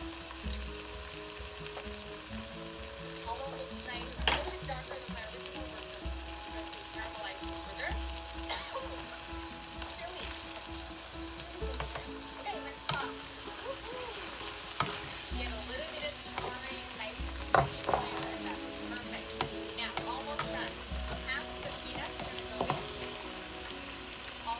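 Rice noodles and eggs sizzling in a nonstick wok while a slotted spatula stirs and scrapes them, with sharp clicks of the spatula striking the pan.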